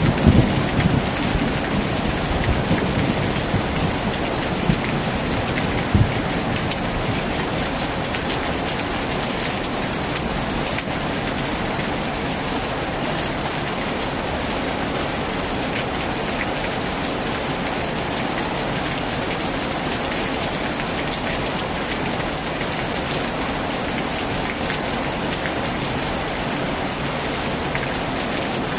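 Heavy rain falling steadily, a dense even hiss of drops. A thunder rumble dies away in the first second.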